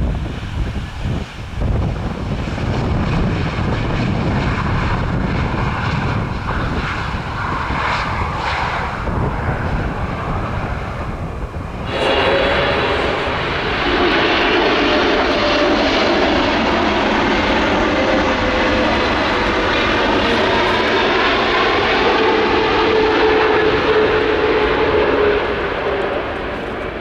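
Jet airliner engines running loud as the aircraft passes low, with wind buffeting the microphone in the first half. About halfway through the sound jumps abruptly to a louder, steadier jet whine that fades near the end.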